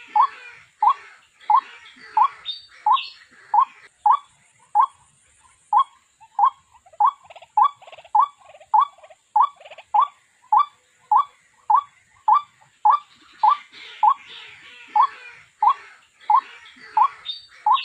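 White-breasted waterhen call, the kind used as a trapping lure: a long run of short repeated notes, about two a second, with rougher chattering between them at times.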